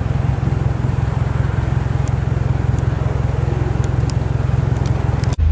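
Jet airliner engines rumbling steadily at takeoff power as an aircraft departs. The sound cuts off abruptly near the end.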